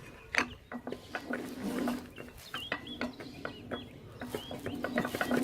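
Bird calls, a run of short chirps about two seconds in, over scattered light clicks and knocks.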